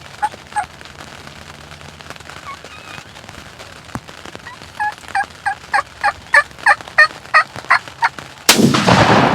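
A run of about ten turkey yelps, falling notes at about three a second, then near the end a single very loud shot from a Remington 870 pump-action shotgun as the gobbler is killed.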